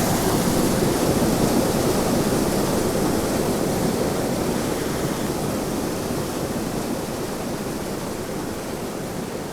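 Steady rush of a waterfall pouring into a creek pool, growing slightly fainter toward the end.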